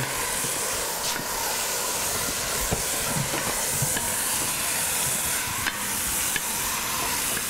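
Diced tomatoes and onions sizzling steadily over high heat in an enamelled Dutch oven while a wooden spoon stirs them.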